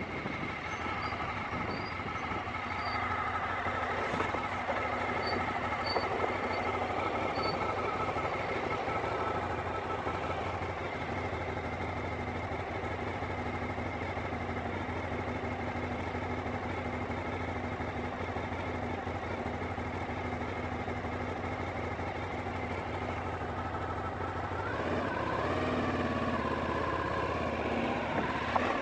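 Aprilia Shiver 750's V-twin engine running at a steady pace while riding, with wind noise on the microphone. Near the end the engine note rises and falls.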